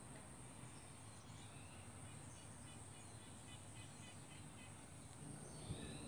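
Near silence outdoors, with faint distant bird chirps: a run of short high chirps from about a second in, and a rising call near the end.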